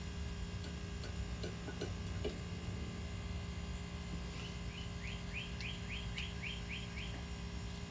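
A bird calling a quick run of about eight short rising chirps in the second half, over a steady low background hum, with a few faint ticks earlier on.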